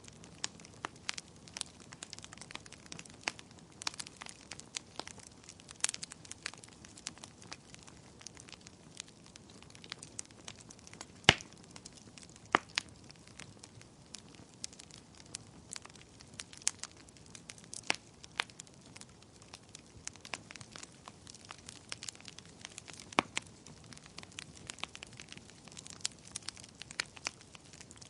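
Wood fire in a fireplace crackling, with irregular sharp pops and snaps over a soft low hiss; one louder pop about eleven seconds in.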